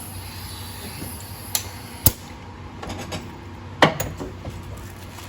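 Metal tools and parts clinking and knocking during engine work: a few sharp separate metallic strikes, the loudest near the end.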